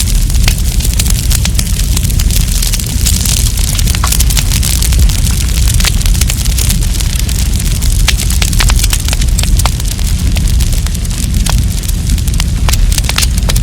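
Wood campfire crackling, with many sharp snaps and pops coming irregularly over a steady low rumble.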